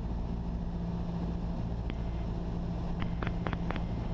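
Cessna 172SP's four-cylinder Lycoming IO-360 engine and propeller droning steadily at reduced approach power, heard inside the cabin. A few short clicks come in the second half.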